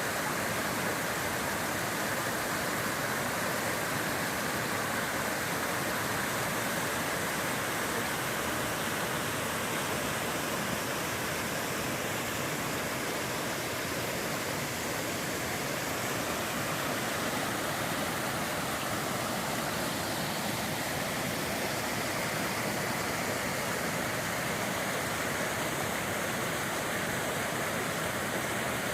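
Steady, unbroken rush of creek water falling over a waterfall.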